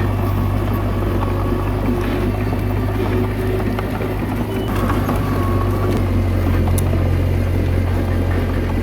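Komatsu D21A bulldozer's diesel engine running steadily, with a few faint clicks now and then.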